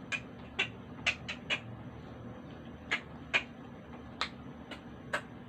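A series of about a dozen short, sharp clicks at irregular intervals, clustered near the start and spread through the rest.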